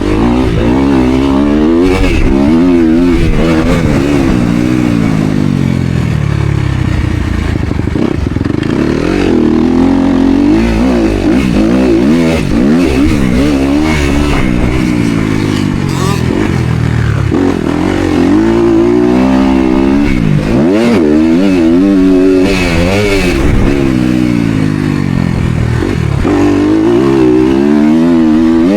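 Motocross dirt bike engine running loud under hard riding, its pitch repeatedly climbing as the throttle is opened and dropping as it is rolled off or shifted.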